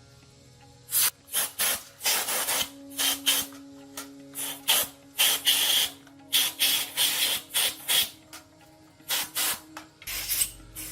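Irregular abrasive strokes rubbing at a rusty fan part by hand, about two a second, starting about a second in and stopping near the end.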